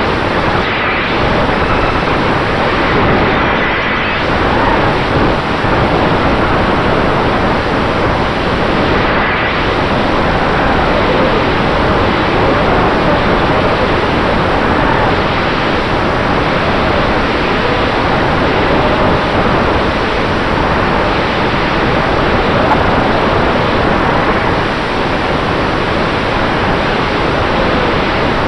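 Onboard sound of an FPV racing quadcopter in flight, driven by Dragonfly Hurricane 2207 2500KV motors on Dalprop T5046C props: a loud, steady rush of wind and prop wash on the camera's microphone, with faint motor whine wavering in pitch.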